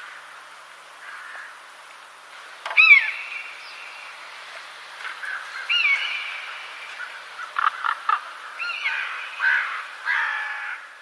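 Wild birds calling: a repeated loud call that slides down in pitch, the loudest about three seconds in and again near six and nine seconds, with shorter chirps in between over a faint steady background hiss.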